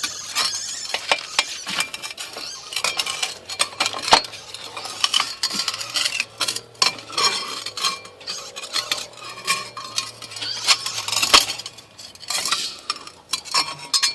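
Metal clattering and scraping: a dense run of sharp clicks and knocks that goes on without a break.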